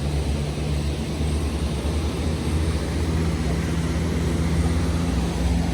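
Heavy vehicle's engine running with a steady low drone. Its tone thickens slightly about three seconds in.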